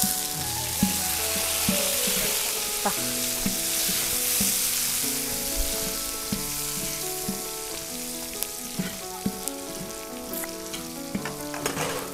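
Lemongrass and kaffir lime leaves sizzling in hot oil in a large metal wok. A metal ladle stirs them, scraping and knocking against the pan every second or so. The sizzle is strongest at the start and eases off gradually.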